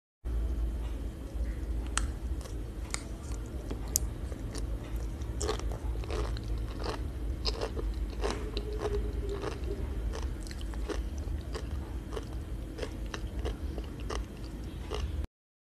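Close-mic chewing of sea grapes (Caulerpa seaweed): many irregular crisp pops and crunches as the little beads burst between the teeth, over a low steady hum.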